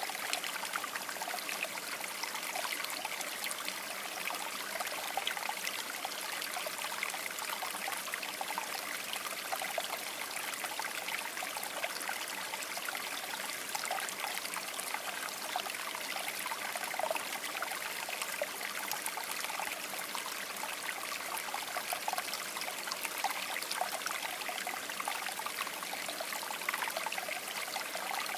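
River water babbling steadily over rocks: an even rushing and trickling with many small splashes.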